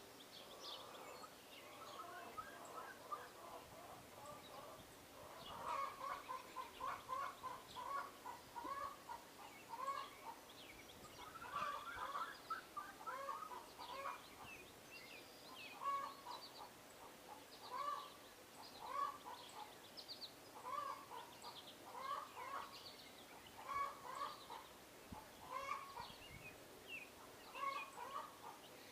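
Birds calling: a long series of short, repeated low calls, roughly one a second, with fainter high chirps over them.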